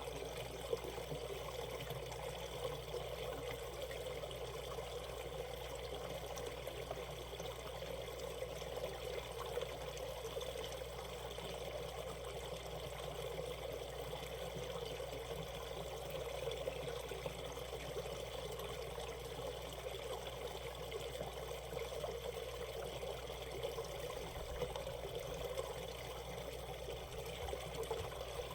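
Shallow valley stream flowing steadily, a continuous rush and trickle of water.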